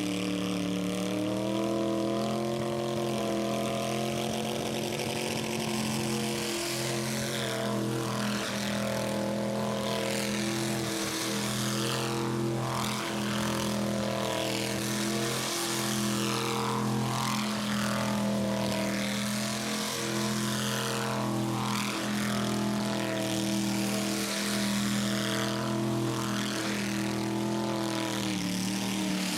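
Rat rod engine held at steady high revs through a burnout, with the noise of spinning tyres above it. The revs climb in the first seconds, hold, and dip briefly near the end.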